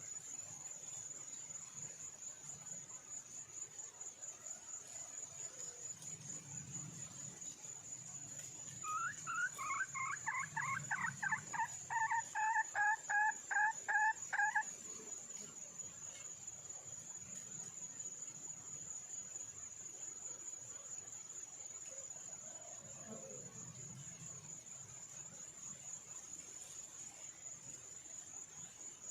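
Junglefowl hen calling: a quick run of short, repeated notes lasting about six seconds and growing louder before it stops, over a steady high trill of insects.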